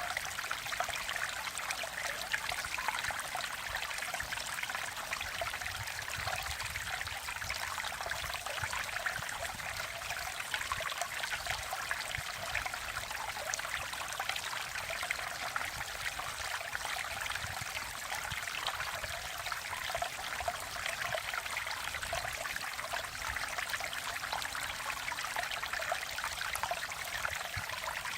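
Mountain valley stream flowing and trickling over rocks, a steady babbling with no breaks.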